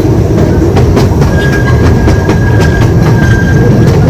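Train running along the track: a loud steady rumble with sharp clicks of the wheels over the rails. A thin, steady high whine, likely wheel squeal, comes in about a second in.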